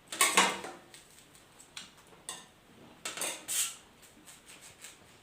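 People eating oranges and handling the fruit in a race to finish: a few short noisy bursts of scraping and clattering, the loudest in the first second and again around three seconds in.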